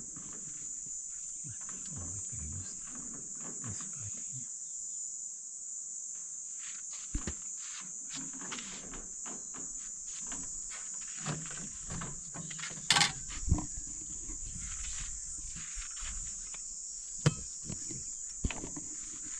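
Insects chirring in a steady, high-pitched drone, with scattered clicks and knocks over it, the loudest a pair of sharp knocks about two-thirds of the way through.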